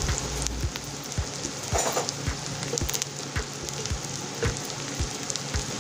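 Sliced onions and minced garlic sizzling in hot oil in a wok: a steady hiss with scattered small crackling pops.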